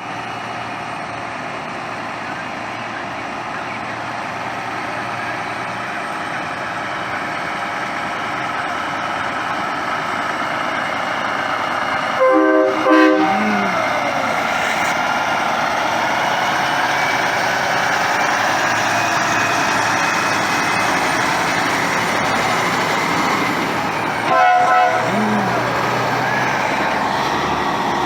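A truck's multi-tone air horn sounds two short chord blasts, about twelve seconds apart. Behind it is a steady din of truck engines that slowly grows louder.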